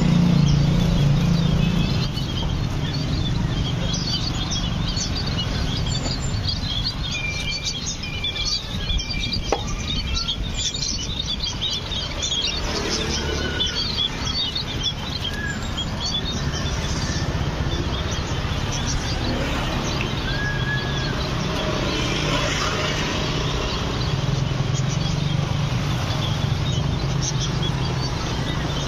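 Many small birds chirping and calling together, a dense run of short high chirps with a few clear whistled notes, over a steady low rumble.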